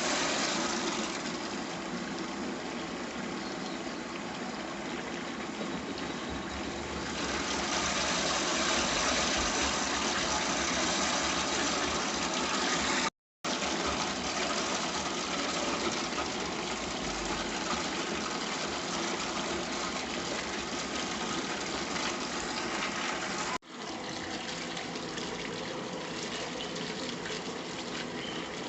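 Brastemp Intelligent 7 kg top-load washing machine filling: cold water gushing steadily into the drum, getting somewhat louder about seven seconds in.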